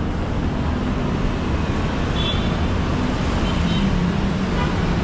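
Busy city road traffic: a steady rumble of passing vehicles.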